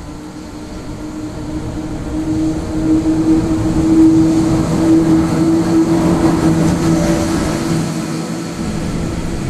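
Electric-locomotive-hauled freight train passing, growing louder over the first few seconds and then staying loud, with a steady low hum over the rumble of the train.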